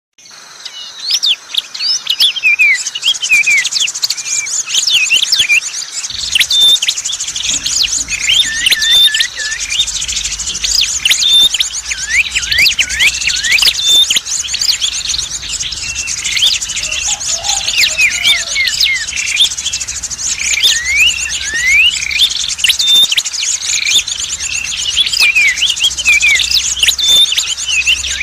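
Bird-lure recording of small songbirds, prenjak (prinia) calls among them: a dense chorus of quick chirps and short sliding whistles over a steady, rapid high trill, starting abruptly. It is played to call in prenjak and other small birds.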